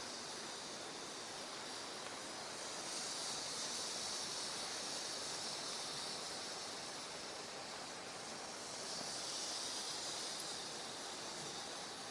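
Flames of a bioethanol fireplace burner burning with a steady soft hiss, which swells slightly twice.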